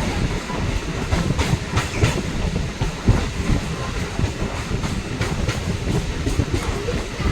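Train running along the track, a steady low rumble with wheels clacking over the rail joints at an uneven pace.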